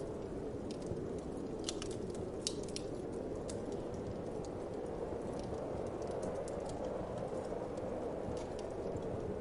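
Wood fire crackling in a fireplace, sharp pops and snaps scattered irregularly and most frequent in the first few seconds, over a steady whoosh of winter wind.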